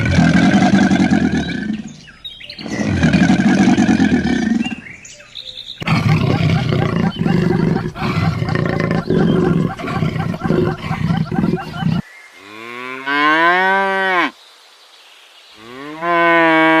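Cattle mooing: a run of loud calls cut together, ending with two long moos that rise and then fall in pitch.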